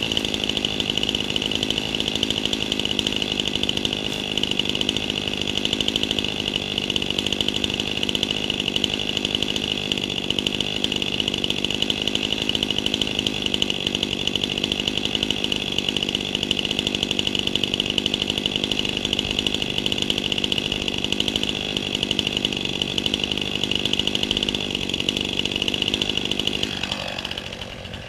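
Chainsaw engine running steadily at high revs, then the revs fall away near the end as the throttle is let off.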